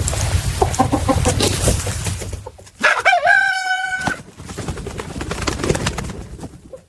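Loud scuffling noise with a few short calls, then one held, steady animal call lasting about a second near the middle.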